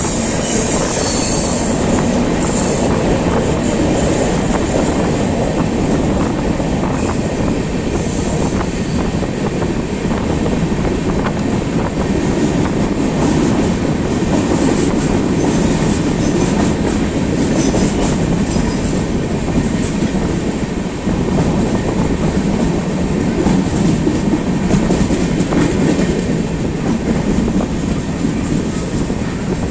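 Moving Indian Railways express train running steadily on the rails: a continuous rumble with rapid clicks and clatter from the wheels and coaches.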